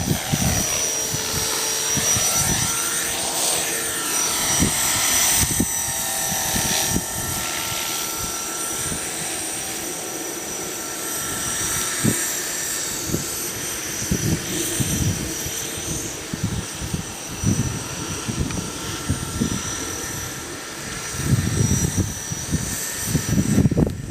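Aircraft engine running steadily with a high whine, its pitch gliding up and down in the first few seconds, over gusty low rumbling.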